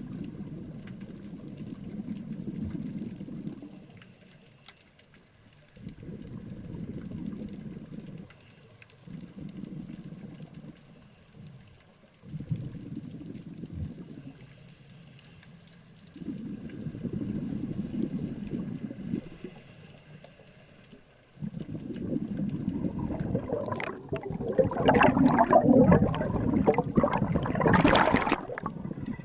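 Scuba regulator exhalations heard underwater: bursts of bubbling every few seconds with short pauses for each inhalation. Near the end a longer, louder, brighter rush of bubbles.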